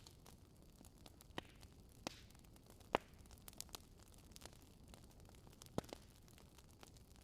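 Fire crackling faintly in a fireplace: scattered sharp pops over a low hiss, the loudest pop about three seconds in.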